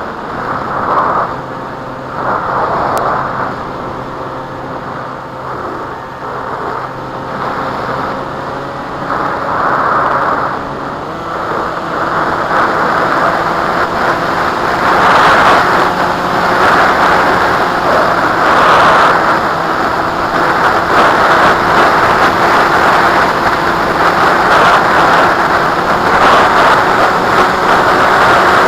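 Wind rushing and gusting over the microphone, growing louder about halfway through, over a steady motor hum that steps up in pitch about 11 seconds in.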